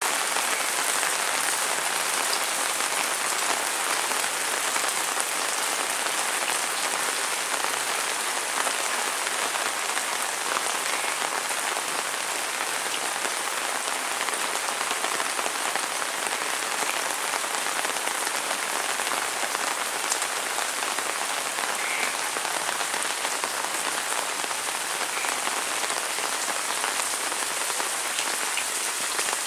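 Heavy rain falling steadily: an even hiss of dense drops striking surfaces.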